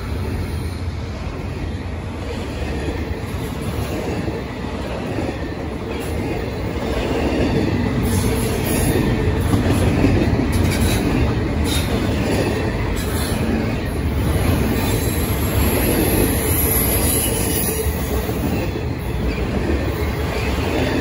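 Double-stack intermodal freight train's loaded well cars rolling past: a steady rumble of steel wheels on rail, with short high wheel squeals coming and going in the middle and later part.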